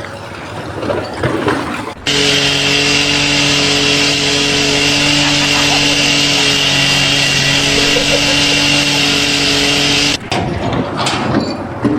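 A machine, likely a power tool, starts abruptly about two seconds in and runs at a steady, unchanging pitch with a hum and hiss, then cuts off suddenly about eight seconds later.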